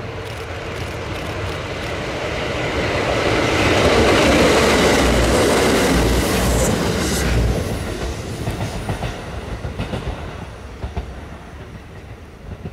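Kintetsu 2410 series two-car electric train approaching and passing close by. It grows louder to a peak about four to seven seconds in, with heavy wheel thumps over the rail joints as it goes by, then fades away with lighter clacks.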